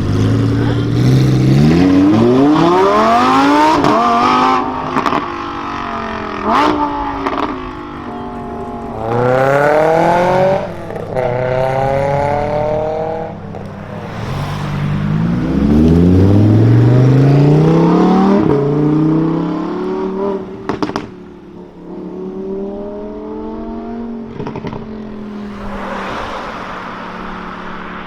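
Lamborghini Huracan Performante's naturally aspirated V10 revving and accelerating hard, its pitch climbing steeply three times and dropping back in between, with a few sharp cracks. It settles to a steadier, lower note near the end.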